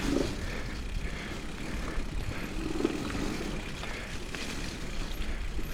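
Electric mountain bike rolling down a wet, muddy trail: a steady rumble of tyre and trail noise with no distinct knocks or clicks.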